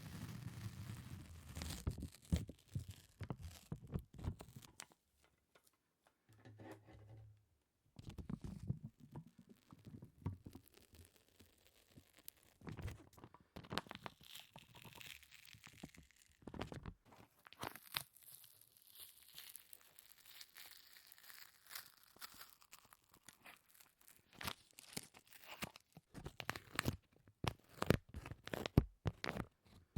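Sticky peeling and crackling sounds close to the microphone: irregular quick clicks and tearing-like pops of a tacky surface being pulled apart, with a short pause about six seconds in.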